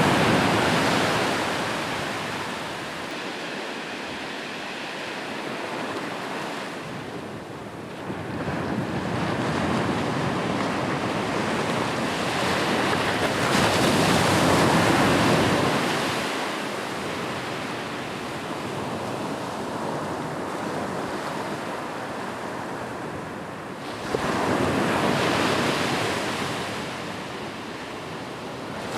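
Ocean surf on a beach: waves break and wash up, the noise swelling and ebbing every several seconds, with one wave breaking suddenly near the end.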